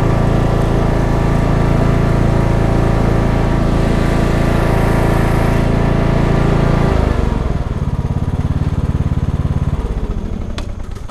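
Cub Cadet XT1 riding mower's engine running steadily at speed, then throttled down to a lower speed about seven seconds in and dying away near the end, as if being shut off.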